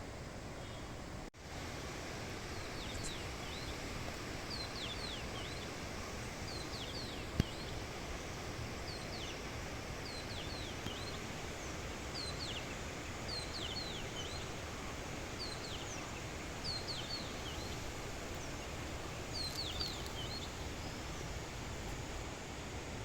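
A songbird repeating short phrases of high, quick downward-sweeping chirps every couple of seconds, over a steady rushing outdoor background of forest ambience. A single sharp tap sounds about seven seconds in.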